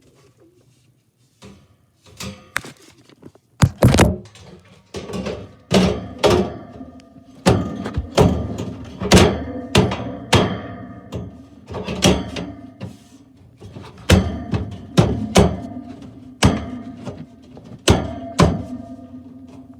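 Comfortmaker gas furnace under test: repeated sharp metal thunks and bangs, each ringing on briefly, over a steady hum that starts about five seconds in.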